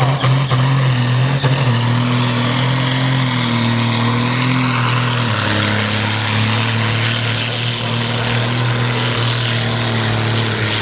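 Turbocharged Farmpony-class pulling tractor engine running hard under full load while pulling the sled down the track. Its pitch steps up about two seconds in and drops back partway a little past halfway.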